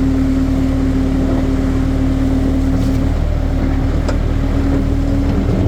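Skid steer's engine running steadily as the machine works the ground, a continuous loud drone.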